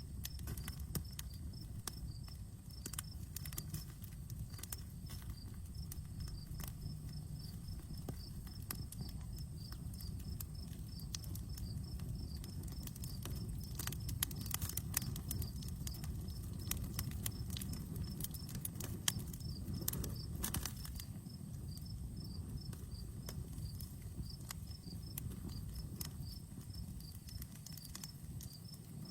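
Wood campfire crackling and popping in irregular sharp snaps over a low steady rumble of the flames, with crickets chirping steadily in the background.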